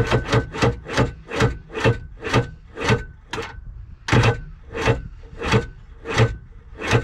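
Kawasaki 1100 STX-DI jet ski's two-stroke engine being cranked by its starter in slow, labouring strokes, about two a second and uneven. It never catches: the battery is dead.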